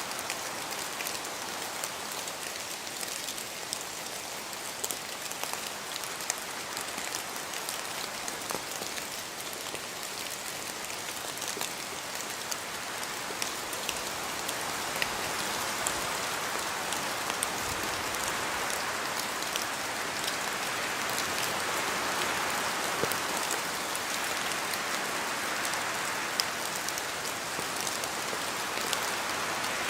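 Steady rain falling in a spruce forest, with many separate drops ticking down from the trees. It grows gradually louder through the second half.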